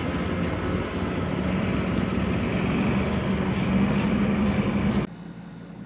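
Steady outdoor rush picked up by the camera's microphone, with a low hum beneath it, cutting off abruptly about five seconds in.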